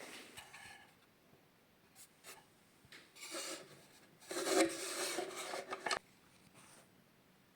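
Wooden cash-register drawer rubbing in its runners with a dry scrape: a short slide about three seconds in, then a longer, louder one with a squeaky edge that ends in a knock.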